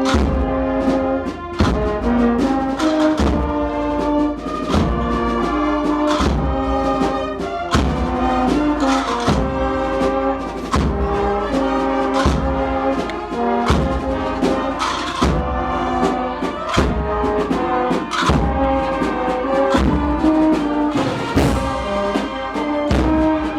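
Brass band playing a slow Holy Week procession march: held chords on trumpets and trombones over a heavy drum beat about every second and a half.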